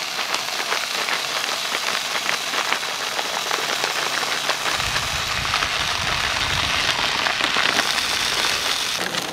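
Sausages and shredded hash browns sizzling in a hot skillet on a propane camp stove, a steady crackling hiss. A low rumble joins about five seconds in.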